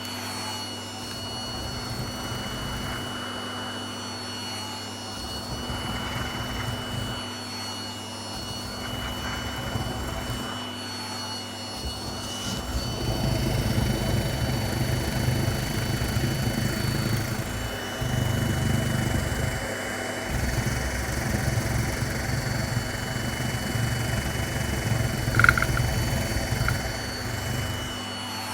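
Vacuum cleaner running, picking up hair, with a steady high motor whine. About halfway in it gets louder and rougher, rising and falling, and a short sharp click comes near the end.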